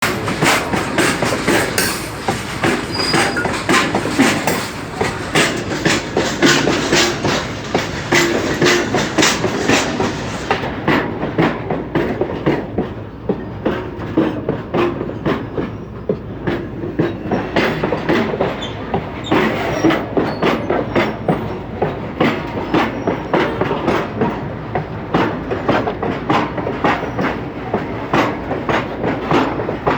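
Goods train running past, its wagon wheels clacking steadily over the rail joints, a couple of clacks a second, over a continuous rumble.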